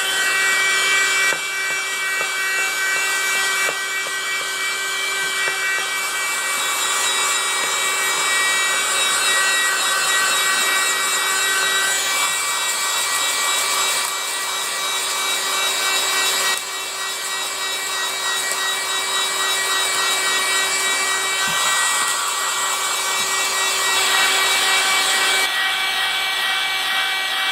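Small USB vacuum cleaner's electric motor running with a steady high whine over a rushing, scratchy hiss; the tone shifts abruptly a few times.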